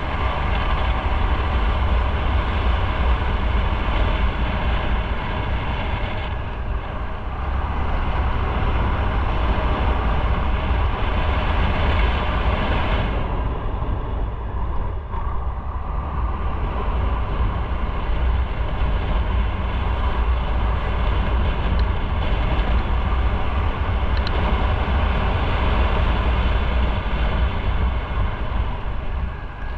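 Motorcycle riding on the road: the engine running under a steady rush of wind and road noise, with heavy low wind buffeting on the microphone. The hiss thins out briefly about halfway through, then returns.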